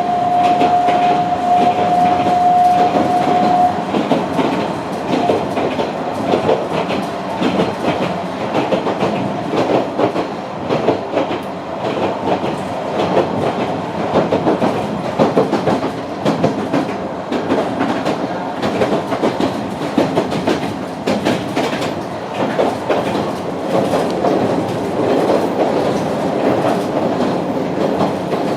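Sanko Railway Hokusei Line narrow-gauge (762 mm) train heard from inside a trailer carriage while it runs along the track: continuous rattling and clickety-clack of the wheels over the rails. A steady high tone sounds for the first few seconds.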